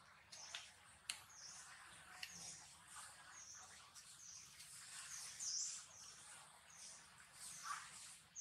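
Faint, high chirps of a bird repeating every half second to a second, with a few soft clicks.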